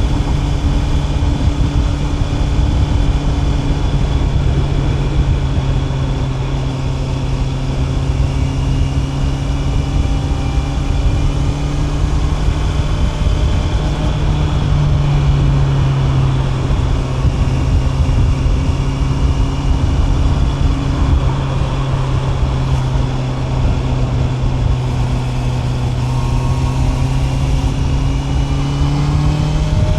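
Honda CB650R's inline-four engine running at a steady cruise, its pitch sagging and rising gently and climbing near the end, over a low rush of noise.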